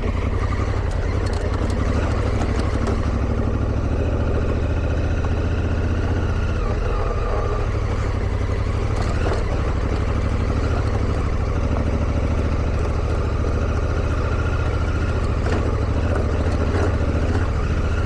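Motorcycle engine running steadily at low speed on a bumpy dirt trail, with a few brief knocks from the bike going over bumps.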